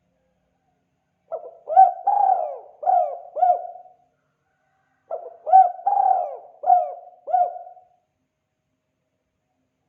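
Spotted dove (tekukur) cooing: two phrases of four or five notes each, about a second apart, the 'kuk 2' call used as a lure.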